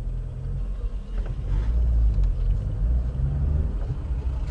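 Steady low rumble of engine and road noise inside a moving vehicle's cab, picked up by a dash cam.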